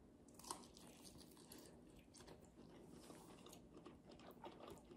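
Near silence, with faint chewing of a bite of cooked pork sparerib and soft scattered clicks from gloved hands handling the ribs.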